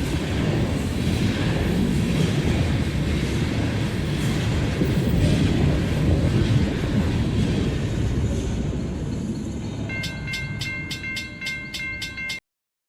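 Train rolling past with a steady low rumble and rail clatter, fading over the last few seconds. Near the end comes a quick run of ringing dings, about three a second, before the sound cuts off suddenly.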